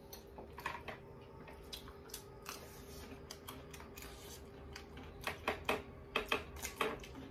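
Close-up eating sounds of people eating rice and dal with their hands: chewing, lip smacks and wet mouth clicks, thickening into a quick run of crisp clicks about five seconds in, over a faint steady hum.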